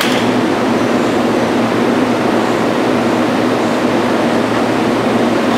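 Keihan 3000 series electric train standing at an underground platform, its onboard equipment running with a loud, steady noise.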